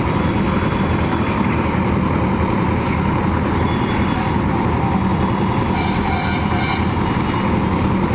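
Engine of site construction machinery running steadily with a low hum.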